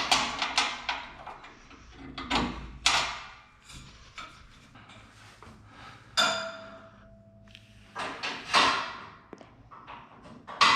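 Metal scaffolding parts clanking and knocking as the frame's crossbars are pinned, a string of sharp knocks with short ringing tails. A little past six seconds in, one strike leaves a steady metallic ring for about two seconds.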